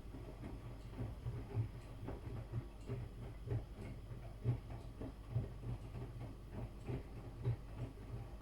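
Miele washing machine in its wash phase, the drum turning and tumbling the wet laundry: repeated soft low thumps with faint clicks, one or two a second, which stop abruptly near the end as the drum comes to a standstill.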